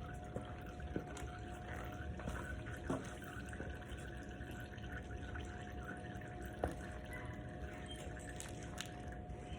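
Engine oil dripping from a motorcycle's drain hole into a drain pan: a few sharp, irregular drips over a steady hum.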